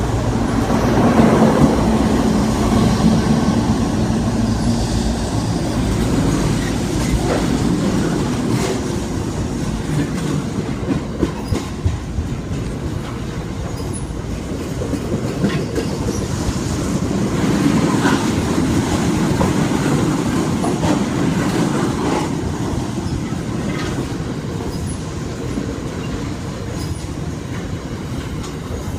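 A British Rail Class 60 diesel locomotive passes with its engine running, followed by a long rake of freight wagons rumbling and clicking over the rail joints.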